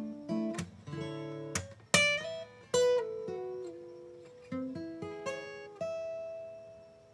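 Acoustic guitar played solo: a few sharp strummed chords between plucked melody notes, then a last note left to ring and fade out near the end.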